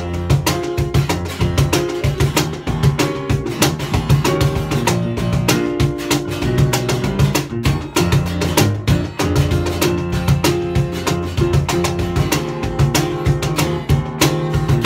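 Band playing an instrumental passage of a song, guitar over bass and percussion with a steady beat.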